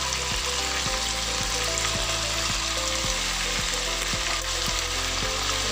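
Chicken and ginger-garlic paste sizzling steadily in hot oil in a pot, at the bhunai (browning) stage with the spices just added.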